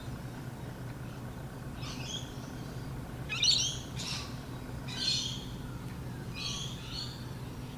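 A bird calling repeatedly, short high chirping phrases about once a second, over a steady low hum.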